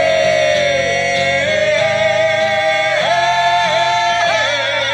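Male rock singer holding one long high note with vibrato, stepping up in pitch about three seconds in and again a second later, over guitar accompaniment.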